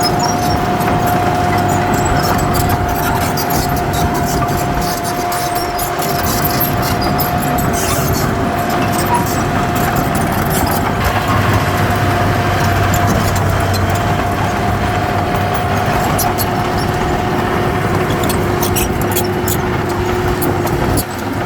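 Heavy diesel earthmoving machine running steadily under work, with a constant high whine over the engine and scattered metallic clicks.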